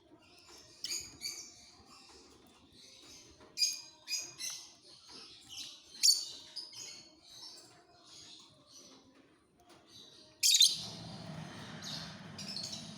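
Lovebirds chirping in short, sharp, irregular calls. Near the end a louder burst of rustling noise starts suddenly and lasts about two seconds.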